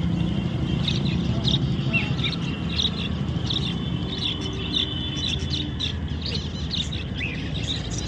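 Small caged birds chirping: many short, high tweets overlapping throughout, over a steady low rumble.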